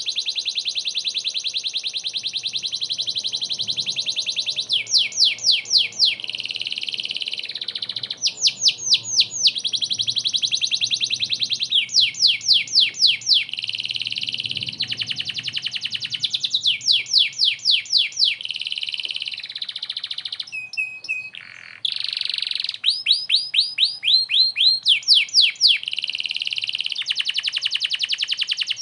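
Domestic canary singing continuously and high-pitched: long, rapid trills alternate with runs of quick sweeping notes, about five a second.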